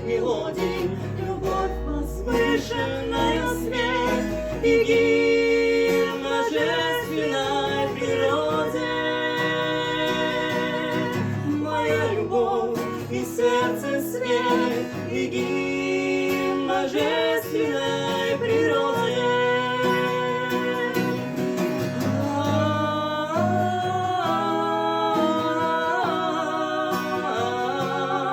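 Acoustic guitar accompaniment with a voice singing a melody in a live bard-song performance.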